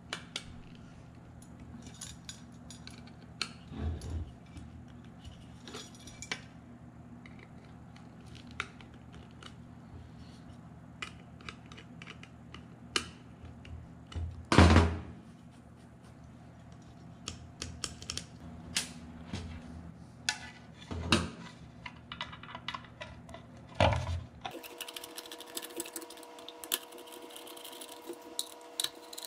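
Scattered clicks and taps of ceiling fan parts being handled and fitted during reassembly, with a few louder knocks, over a steady low hum.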